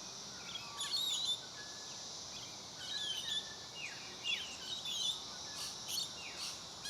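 Several wild birds giving short chirping calls, some sliding down in pitch, every second or so, over a steady high insect drone.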